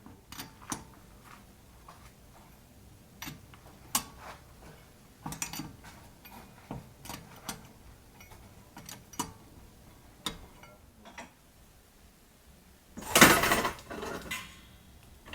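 Scattered metallic clinks and knocks of hand tools and metal suspension parts being handled during coilover work, then a loud burst of noise lasting about a second and a half near the end.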